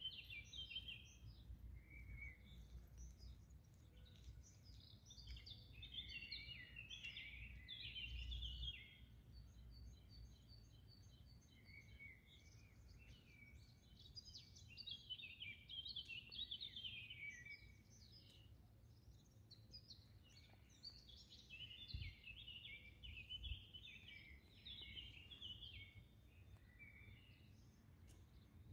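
Small songbirds singing in bouts of quick chirping phrases, with one bird repeating a short note in an even series around ten seconds in. A faint low rumble sits underneath.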